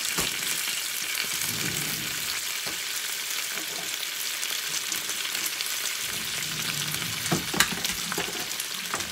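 Spinach sautéing in hot oil and butter in a frying pan, a steady sizzle. A couple of sharp clinks of utensils in a kitchen drawer come about seven seconds in.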